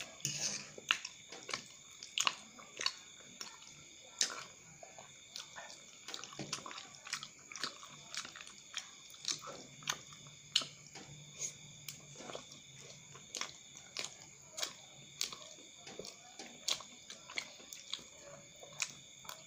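Close-up wet chewing and lip-smacking of chewy cilok tapioca balls in sambal sauce, in short irregular smacks about one or two a second.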